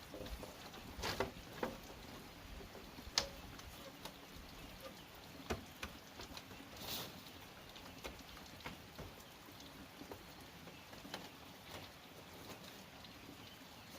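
Scattered light knocks and clicks over a faint steady hiss, the sharpest about three seconds in.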